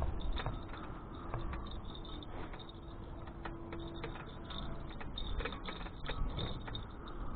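Low rumble of a bicycle ride with scattered irregular clicks and rattles.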